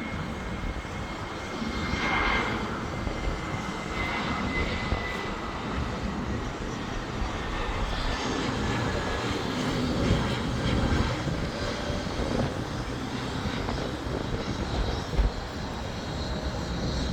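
Airbus airliner's jet engines on approach to land: a steady rumble with a faint high whine that slowly falls in pitch.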